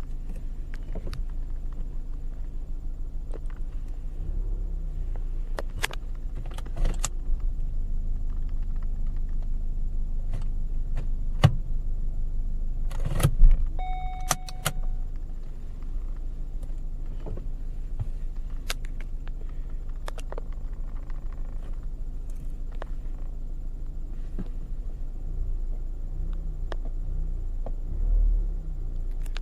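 BMW 318ti's M44 1.9-litre four-cylinder engine running steadily, with a fault later traced to a failing camshaft sensor. Scattered sharp clicks and knocks sound over it, the loudest about 13 seconds in, followed by a short beep.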